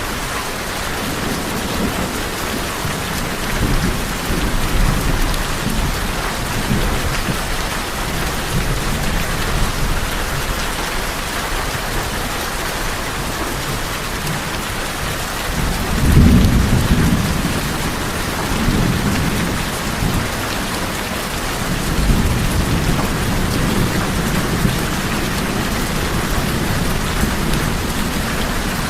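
Steady rain falling on tin roofs, with several low rolls of thunder rumbling under it, the loudest a little past the middle.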